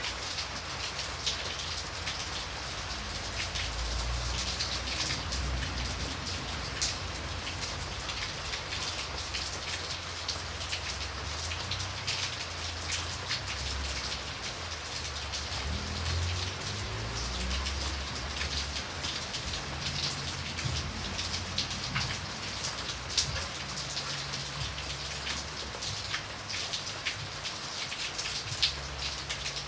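Steady rain falling, with many individual drops ticking sharply against a surface, over an uneven low rumble.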